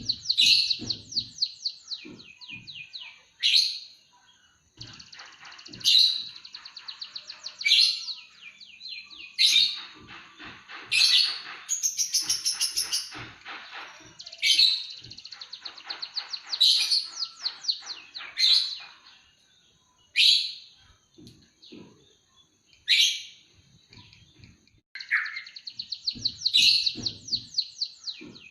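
Emprit kaji (munia) singing continuously in a canary-like song: rapid rolling trills and quick repeated notes in phrases of a second or few, broken by short pauses and sharp high chips.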